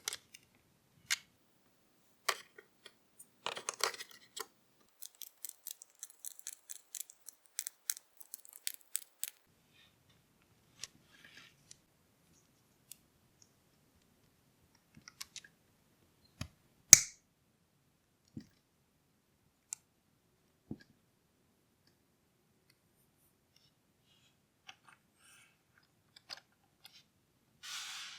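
Small plastic model-engine parts clicking and tapping as they are handled and fitted together. The clicks come thick and fast for the first nine seconds or so, then scattered, with one sharp snap about halfway through and a short rustle near the end.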